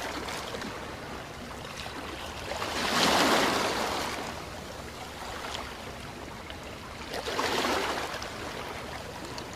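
Waves washing in over a steady wash of water, swelling louder twice, about three seconds in and again near seven and a half seconds.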